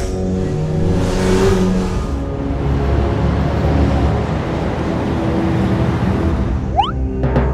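Background music under a car engine sound effect, with a quick rising whistle-like sound effect near the end.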